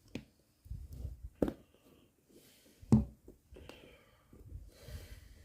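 Pliers working at a failed rubber puncture patch: a few scattered clicks and knocks, the loudest about three seconds in, over low handling noise.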